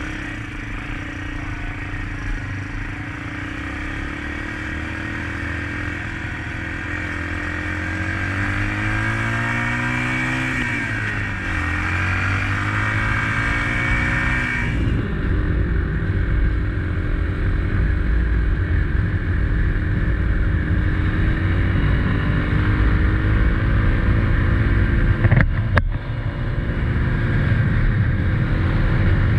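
2021 SSR XF250 motorcycle's engine on the move, revs climbing, dropping about eleven seconds in as a gear is changed, then climbing again before settling to a steadier note. A low rumble grows louder as speed builds, with a brief sharp click a few seconds from the end.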